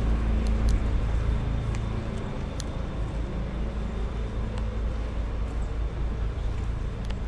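Street traffic: a steady low rumble of motor vehicles, with a vehicle engine's hum fading away about two seconds in.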